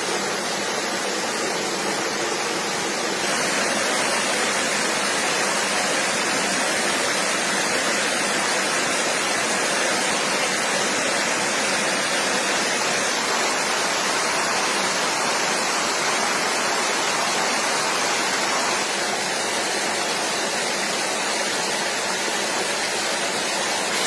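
Steady rush of a flowing stream, with no distinct splashes or tones; it grows a little louder about three seconds in and drops back a few seconds before the end.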